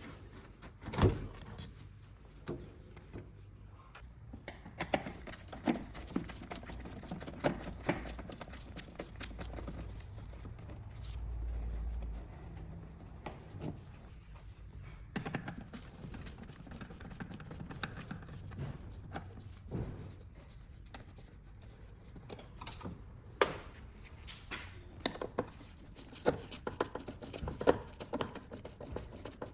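Irregular clinks and knocks of hand tools against metal, scattered and uneven, with a brief low rumble about eleven seconds in.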